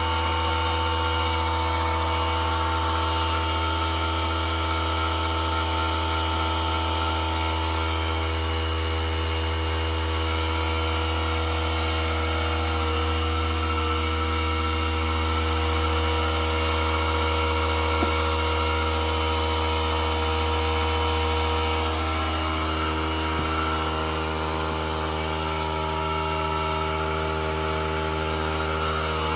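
Steady machine hum with a constant pitch, like an electric motor running; its tone shifts slightly about two-thirds of the way through.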